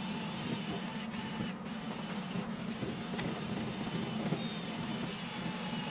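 A motor running steadily: a constant low hum under a hiss of rushing air, from dryer vent cleaning equipment at work.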